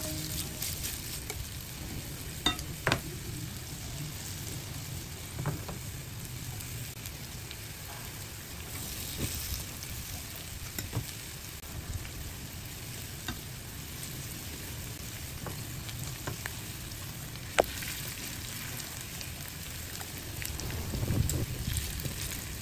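Shredded potato and bacon pancakes sizzling steadily in oil in a nonstick frying pan, with a few light clicks of chopsticks and a spoon touching the pan.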